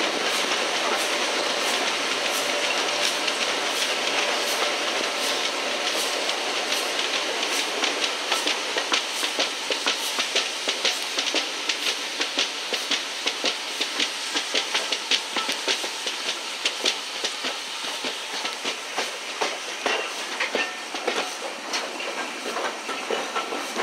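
Railway carriage wheels clattering over rail joints at speed, with the steady rush of running and wind noise through an open carriage window. The clicks become sharper and more frequent partway through.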